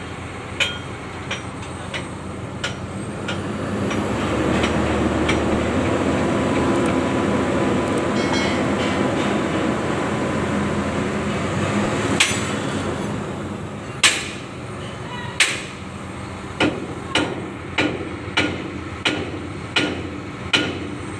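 Sharp knocks like hammer blows over a steady mechanical running noise that swells in the middle and eases off again. Near the end the knocks come in a steady run of about one every two-thirds of a second.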